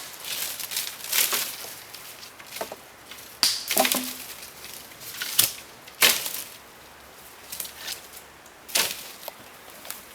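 Scattered sharp knocks and clicks, about five over ten seconds, with faint rustling in between.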